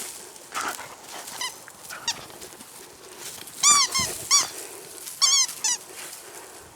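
Dog playing tug on a flirt pole toy, with short high-pitched squeaks: a few faint ones at first, then two louder quick clusters in the second half.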